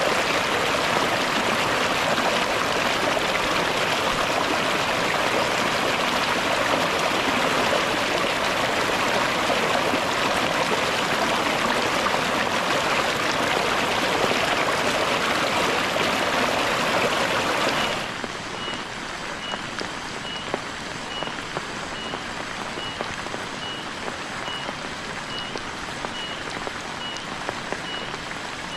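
Heavy rain falling steadily, cut off abruptly about two-thirds of the way through by quieter rain with scattered drips and a faint high chirp repeating about every two-thirds of a second.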